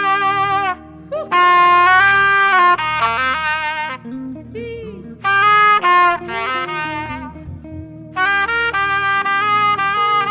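Saxophone playing a slow melody of long held notes with vibrato, in phrases separated by short breaths, over a steady low backing.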